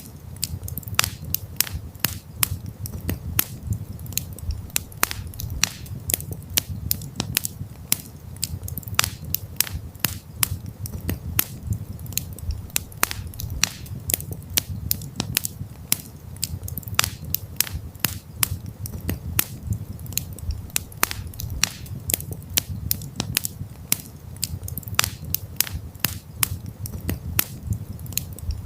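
Wood campfire crackling: irregular sharp pops and snaps, several a second, over a steady low rumble of the burning flames.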